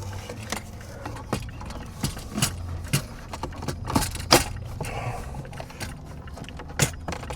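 Plastic dashboard trim and its connectors being handled and pushed into place: irregular clicks, knocks and light rattles, the sharpest a little past four seconds in and again near the end, over a low steady hum.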